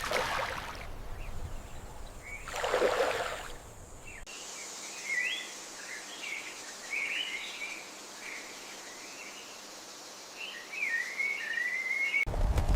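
Birds chirping in a series of short, squiggly calls, the last a longer sliding call. These follow a brief rush of noise about three seconds in.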